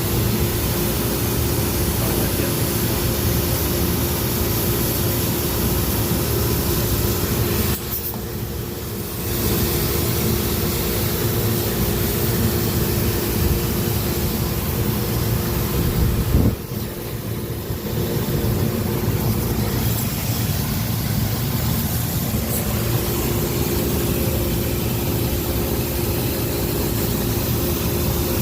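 Steady machinery running with a constant hum under an even hiss. It drops off briefly twice.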